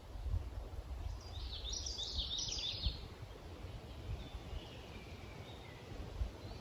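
A songbird sings one quick, jumbled phrase of high notes about a second in, followed by fainter thin calls. A low wind rumble buffets the microphone throughout.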